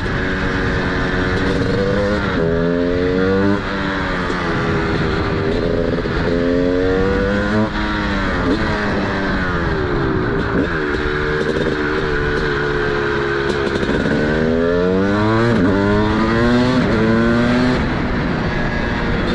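TM SMR 300 two-stroke supermoto with a DBR exhaust, under way. Its engine note climbs several times as it accelerates up through the gears, dropping briefly at each shift, and falls away when the throttle closes.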